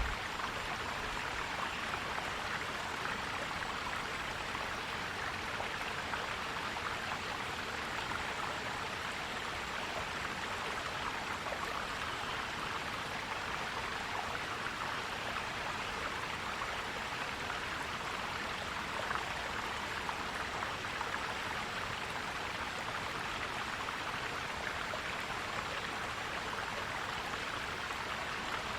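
Forest stream flowing, a steady gurgling rush of water.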